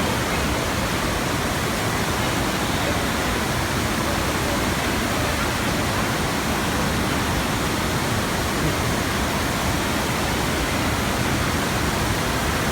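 Steady rushing water from an indoor surf simulator's flowing sheet of water, running without a break.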